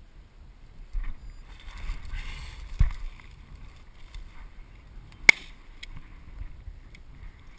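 Brush crashing and rustling as a hunter pushes through a bush to flush a pheasant, then a single sharp shotgun shot about five seconds in.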